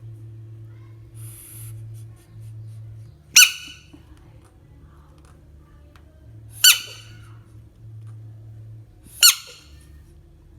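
Frog giving three short, sharp squeals about three seconds apart, each falling quickly in pitch.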